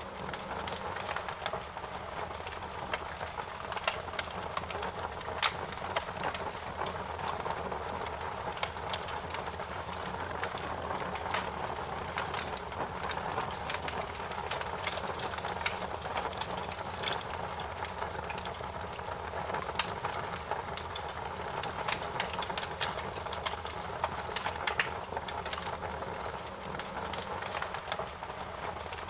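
Fire crackling steadily, with frequent irregular sharp pops and snaps over a low, even rush.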